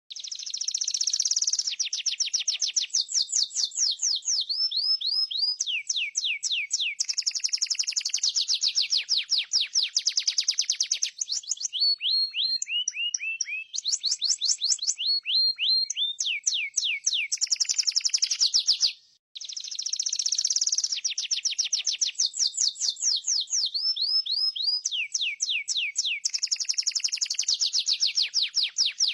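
Domestic canary singing a long, continuous song of rapid trills, each roll a fast run of repeated downward-sweeping notes that changes speed and pitch from roll to roll. There is a brief break about two-thirds of the way in, after which the same song starts over.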